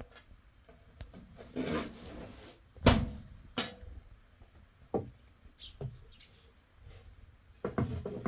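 Handling noises: a short rustle and several separate sharp knocks, the loudest about three seconds in.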